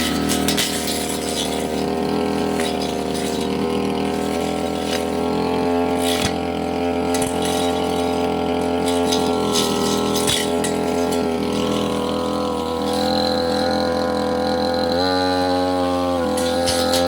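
Petrol brush cutter engine running steadily under work, with a few brief sharp ticks as the blade strikes brush. The engine note changes briefly about fifteen seconds in.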